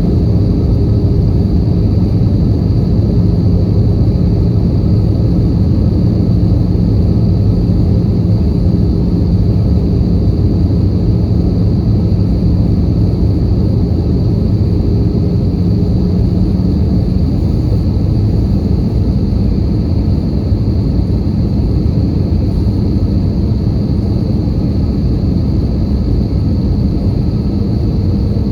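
Steady in-flight cabin noise of an Airbus A320 airliner: engine and airflow rumble with a low hum running through it, which fades out about two-thirds of the way through.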